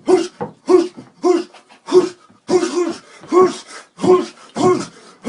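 A man making short, rhythmic vocal shouts or grunts, about two a second, each rising and falling in pitch, as he performs a mock martial-arts routine.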